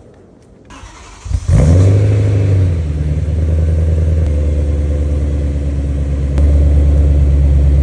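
BMW M3 cold start: the starter cranks briefly about a second in, then the engine catches with a loud rev flare and settles into a steady fast cold-start idle, which gets a little louder near the end.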